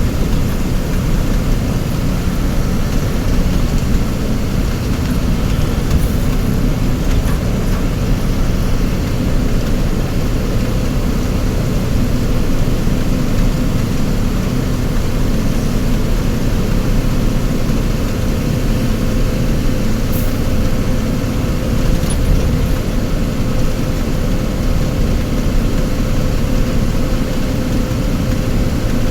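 Motor vehicle engine running steadily, a constant low drone with no change in speed.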